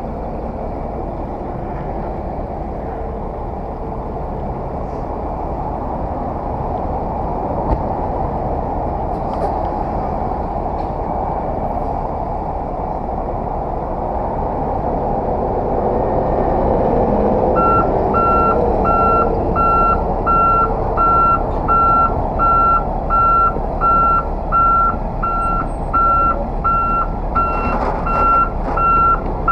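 Heavy truck engine running steadily, getting somewhat louder about halfway through. From a bit past halfway, a reversing alarm beeps about one and a half times a second while the truck backs up.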